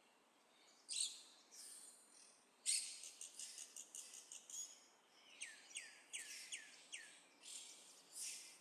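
Birds chirping faintly, including a quick run of about five short falling notes in the middle, among brief hissy rustles.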